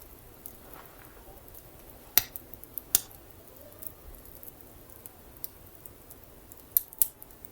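Wood fire crackling: a scatter of faint ticks with sharp pops about two and three seconds in and two more close together near the end.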